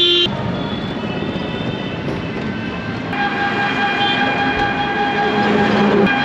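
Rumbling travel noise, with a long steady horn tone starting about three seconds in and held to the end.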